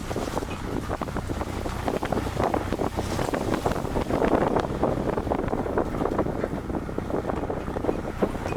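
Wind buffeting a microphone on a moving vehicle, a steady rough rushing, with a low engine and road drone underneath.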